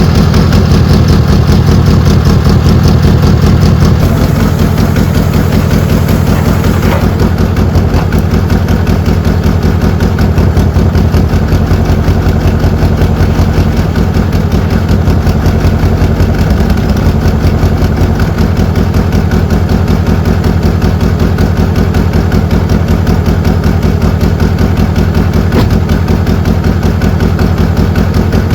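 Citroën GS Club's air-cooled flat-four engine idling steadily while warming up after a cold start at −13 °C, a little quieter after about four seconds.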